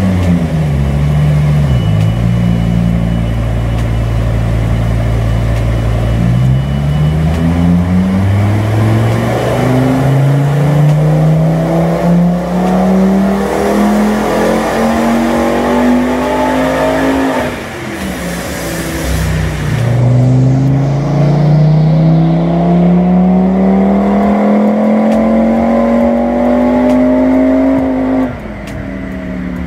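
A car engine held steady, then accelerating hard in two long pulls, its pitch climbing steadily for about ten seconds each time before dropping away suddenly.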